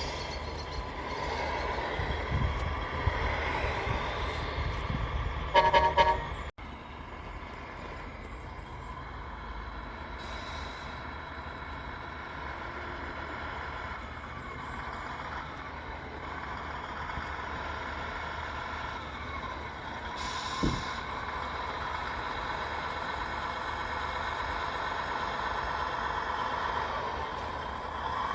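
Radio-controlled scale trucks running, their onboard sound units playing truck engine noise that dips and rises in pitch as they slow and speed up. A loud horn toot comes just before six seconds in.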